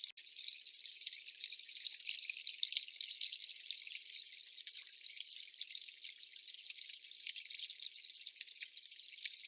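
Steady fine patter of dripping water, a dense crackle of many tiny drops that drops out for an instant right at the start.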